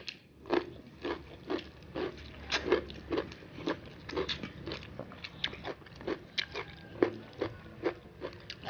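Close-up chewing and lip-smacking of people eating rice and fish by hand, a steady run of short wet smacks about three a second.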